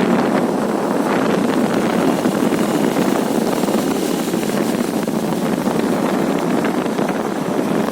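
Steady, loud wind rushing over the microphone of a moving motorcycle, with road and engine noise buried under it.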